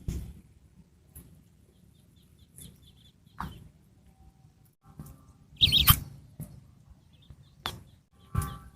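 A pet bird chirping: a run of short, high chirps, then a louder sharp burst about six seconds in, with a couple of quick sharp clicks near the end.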